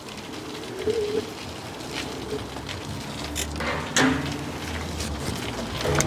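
A bird cooing with short low calls about a second in and again a little later, among scattered clicks and knocks and a low rumble that starts about halfway through.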